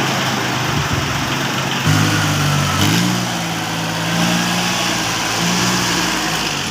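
Small engine running steadily. Its pitch steps up about two seconds in and again about a second later, then holds at the higher speed.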